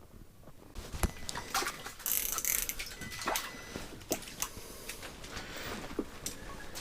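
Irregular small clicks and knocks, with a short spell of rustling about two seconds in: things being handled at close range.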